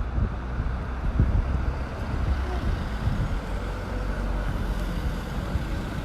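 Outdoor street ambience: a steady low rumble of road traffic, with irregular low thumps of wind buffeting the microphone.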